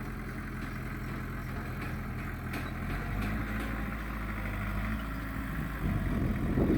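Diesel engine of earthmoving machinery running steadily. Its note shifts about three seconds in, and it grows louder and rougher near the end.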